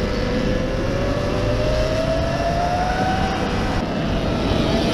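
Sur-Ron Ultra Bee electric dirt bike riding along: its motor whine rises steadily in pitch as it gains speed, then levels off near the end, over heavy wind and tyre rumble on the microphone.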